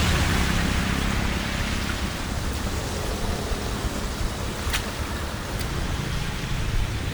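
Steady hiss of rain and rushing water, with one sharp tick about two-thirds of the way through.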